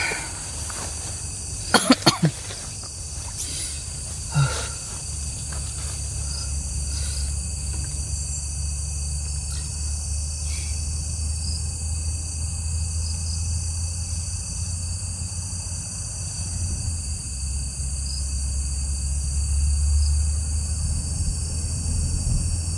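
Night-time forest ambience: steady high chirring of insects over a low, even rumble. A few sharp knocks come about two seconds in, and one more a couple of seconds later.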